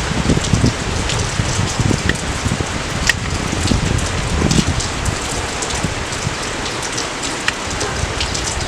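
Steady rain falling, an even hiss with scattered individual drips and splashes.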